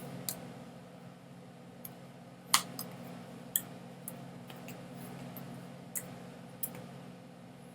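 Irregular sharp clicks, a dozen or so, the loudest about two and a half seconds in, over a steady low hum.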